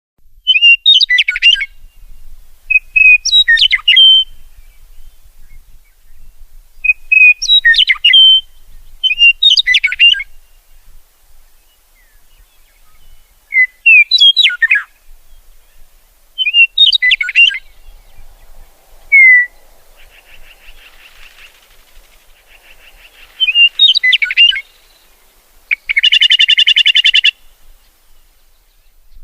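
Songbirds singing: short, loud, warbling phrases with quick pitch sweeps, repeated every two to three seconds. Near the end comes a rapid buzzy trill, with a softer buzzing shortly before it.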